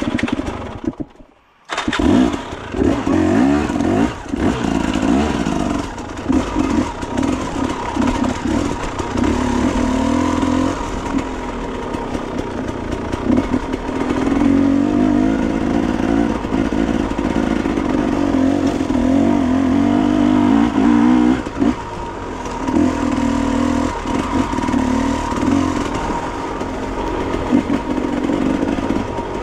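Enduro motorcycle engine catching about two seconds in, then running and revving up and down unevenly.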